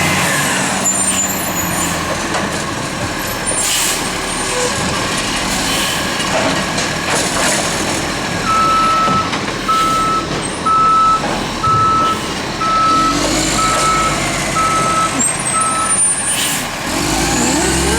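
Garbage truck running, with its reversing alarm beeping about once a second, eight times, in the second half. Two short hisses cut through, about four seconds in and near the end.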